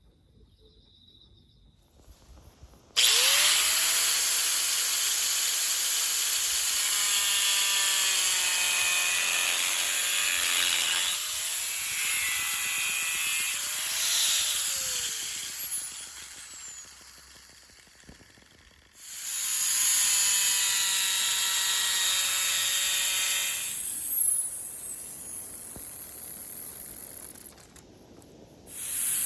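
A handheld electric power tool runs in two long stretches, starting about three seconds in and again near twenty seconds. Its motor whine rises as it spins up, shifts in pitch as it works, and falls away as it winds down.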